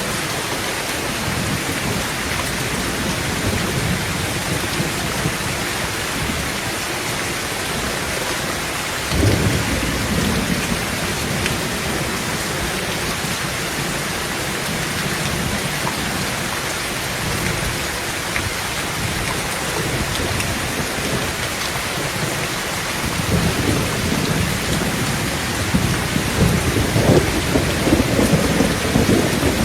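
Heavy rain drumming steadily on a tin roof, with a sharp thunder crack about nine seconds in and rolling thunder rumbling louder in the last several seconds.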